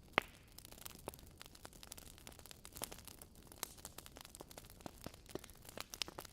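Wood fire burning in a fireplace, a soft steady hiss with irregular sharp crackles and pops, the loudest pop just after the start.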